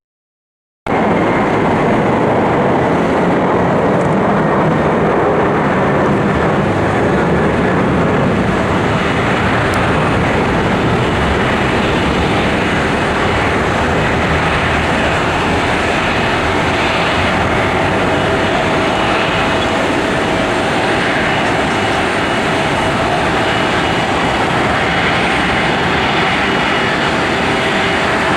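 Jet airliner's engines running loud and steady, a continuous rush of noise with a thin whine over it. It begins abruptly after a moment of silence.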